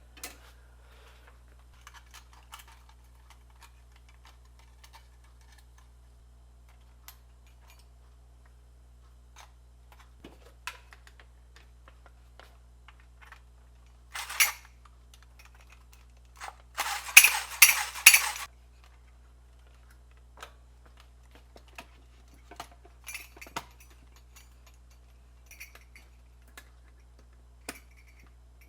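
Scattered small clicks and clinks of parts and hand tools being handled on a workbench, with two louder short noisy bursts about halfway through, the second one longer and choppy, over a low steady hum.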